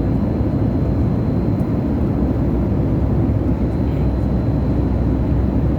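Steady rushing cabin noise of a Boeing 737 MAX 8 airliner at cruise, airflow and engine noise heard from a passenger seat, with a faint thin high tone underneath.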